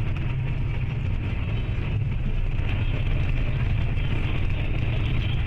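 Steady rumble of a moving road vehicle, engine and road noise with no single event standing out.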